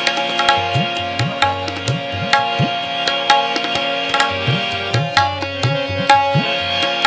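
Instrumental interlude of Sikh kirtan: tabla playing a steady rhythm, the bass drum's pitch sliding upward on its strokes, over sustained harmonium chords.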